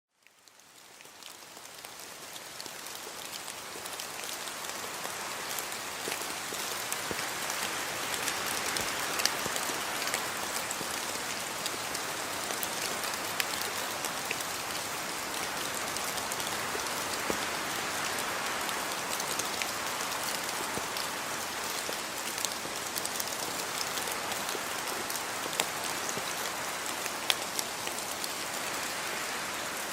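Steady rain falling and pattering on surfaces, with individual drops ticking sharply here and there; it fades in over the first few seconds.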